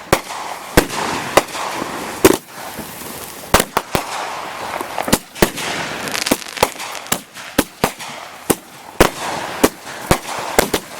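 Consumer multi-shot firework cakes firing shot after shot: sharp bangs at uneven intervals of about half a second to a second, with a steady hiss between them.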